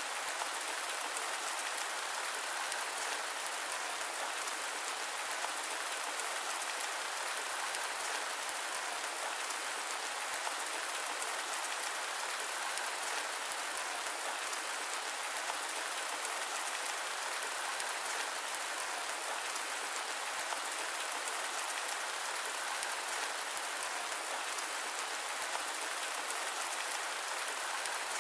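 Steady rain falling: an even, dense hiss of many small drops with no thunder and no change in level.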